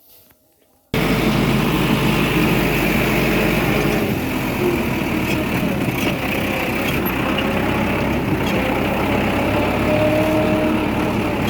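Tractor engine running steadily and loudly, starting abruptly about a second in.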